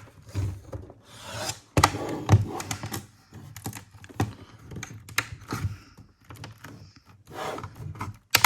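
Plastic bottom case of a laptop being pressed onto the chassis, its clips snapping into place in an irregular series of sharp clicks and knocks, with some rubbing of plastic between them.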